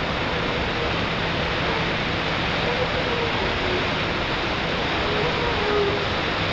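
Steady, loud rushing of a 30-metre waterfall: an even wash of falling water with no breaks.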